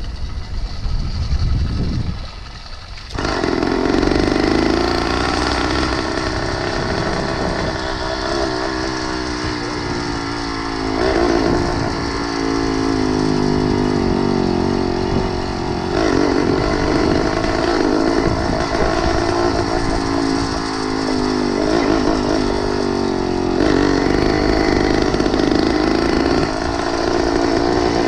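Motorized bicycle's small engine running under throttle, its pitch rising and falling as it speeds up and eases off several times. It picks up about three seconds in, after a moment of low wind rumble.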